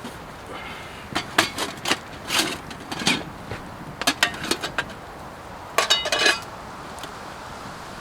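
Metal camp cookware clanking and clinking: a run of irregular knocks, with a quick cluster of ringing clinks about six seconds in.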